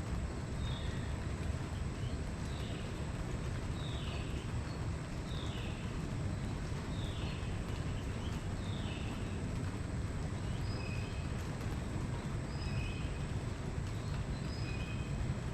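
A bird singing a series of repeated down-slurred whistled notes, about one a second, switching near the end to shorter, higher whistles, over a steady low rumble.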